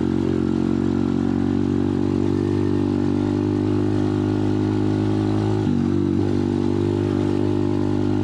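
Pit bike engine running at a steady speed under way, with a brief dip in pitch about six seconds in before it settles back.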